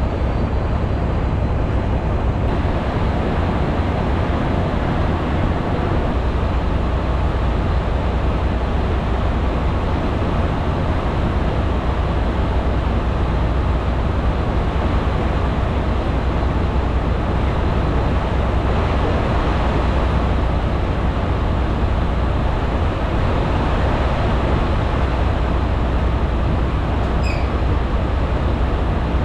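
Steady diesel engine drone and road noise inside the cab of a Freightliner semi truck under way, with a constant deep rumble.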